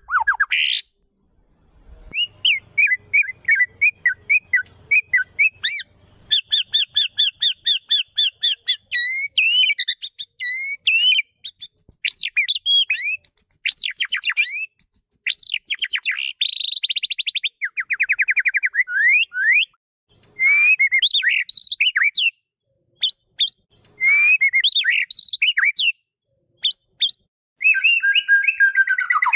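White-rumped shama (murai batu) singing a long, varied song: fast runs of repeated chirps, trills and sliding whistled notes, broken by a few short pauses.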